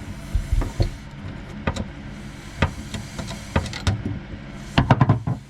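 Irregular clicks and knocks of hand tools and metal fittings under a kitchen sink as the screws of a faucet's retaining ring are worked out, with a quick run of several knocks near the end. A steady low hum runs underneath.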